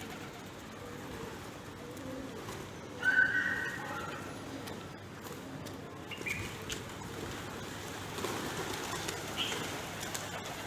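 Pigeons cooing, low and soft, with a short, louder high-pitched call about three seconds in.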